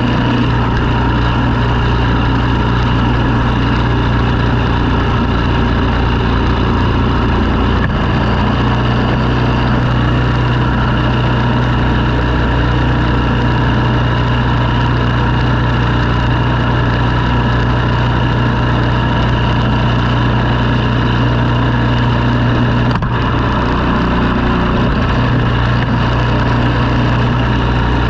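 An engine running steadily at a constant speed, with no rise or fall in pitch.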